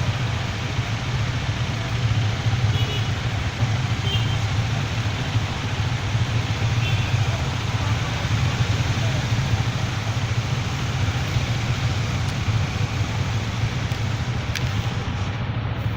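Bajaj Dominar motorcycle being ridden, its engine running steadily under road and wind noise.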